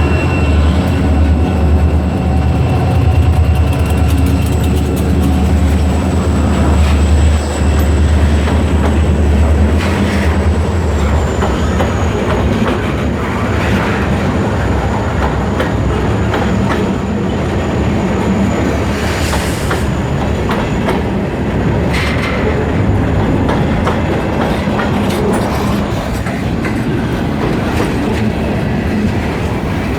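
Kiamichi Railroad freight train rolling past, with the low drone of its EMD SD40-2 diesel locomotives dying away about eleven seconds in. The cars' wheels then clack over the rail joints, with a thin high wheel squeal until about twenty seconds in.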